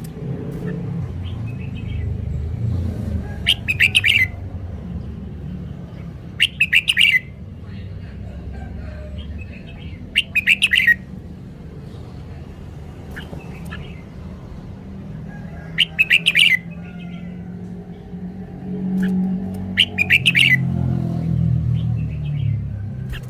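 Red-whiskered bulbul singing: five short, loud phrases of rapid notes, a few seconds apart, over a steady low rumble.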